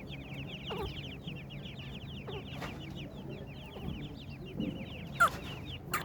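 A group of partridge chicks peeping continuously, a dense run of rapid, high, downward-slurred cheeps, with two louder sharp notes near the end.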